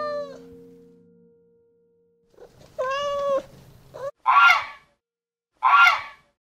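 A kitten meows, one call ending at the start and a single arched meow about three seconds in; then a Canada goose gives two loud, harsh honks about a second apart, each about half a second long.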